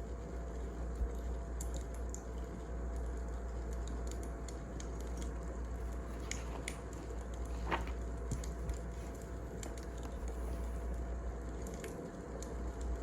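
Wood fire crackling: a steady low rush with scattered snaps and pops of burning logs.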